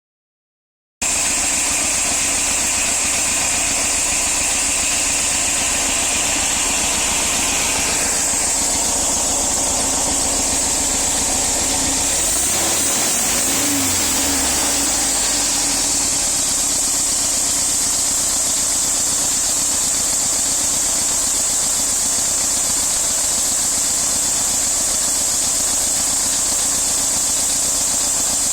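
VW Bus engine and exhaust running steadily, with a strong steady hiss over the engine note. About halfway through the engine revs briefly and drops back.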